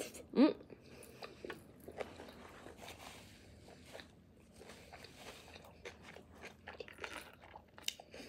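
A person chewing and crunching close to the microphone while eating a pupusa topped with pickled jalapeños, with small mouth clicks throughout. About half a second in there is a brief rising hum.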